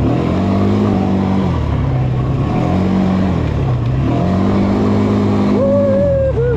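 Quad bike engine revving up and easing off repeatedly as it is ridden, in about three throttle surges. A brief wavering higher tone rises over it near the end.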